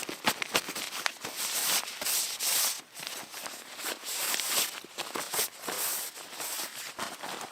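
Footsteps crunching in snow, irregular, with scattered sharp clicks and rustles in between.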